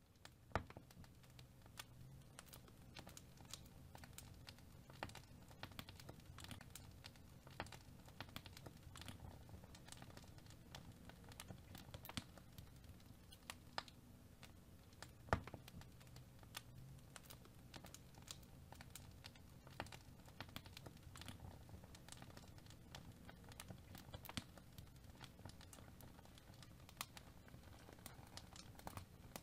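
Faint, irregular small clicks and crackles, several a second, over a low steady hum, with one sharper click about halfway through.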